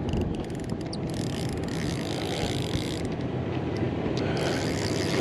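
Fishing reel being cranked, its mechanism giving off rapid fine clicking, over a steady low rumble.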